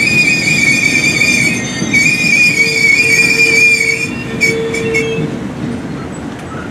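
Amtrak Capital Limited passenger train's steel wheels squealing on the rail as the cars roll past: a high, wavering screech over the low rumble of the train. The squeal dies away about five seconds in.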